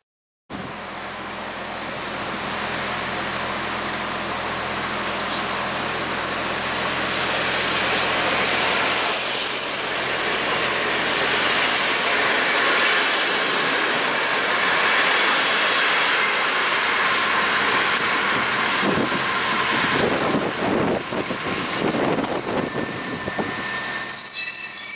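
An SA137 diesel railcar hauling a passenger coach pulls away along the platform: engine running, wheels rolling, and a high wheel squeal on and off. About twenty seconds in comes a run of sharp wheel clicks, as over rail joints.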